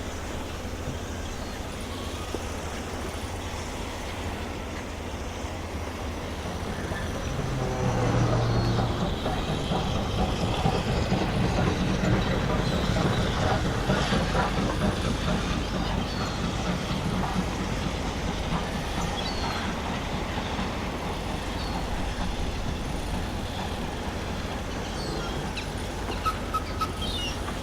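Dubbed sound effect of a steam locomotive and its wagons on the move, the train noise building about eight seconds in and then slowly easing, with a few sharp clicks near the end.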